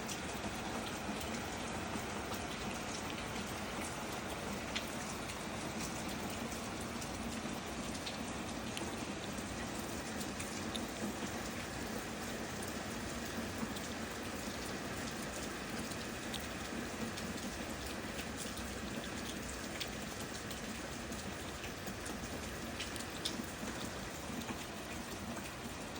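Steady rain falling, with scattered sharper ticks of individual drops landing on surfaces.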